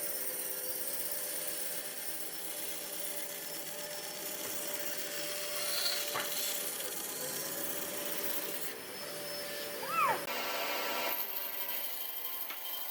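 A power tool working wood: a steady hum with a rubbing, rasping noise, and a short pitched squeal about ten seconds in.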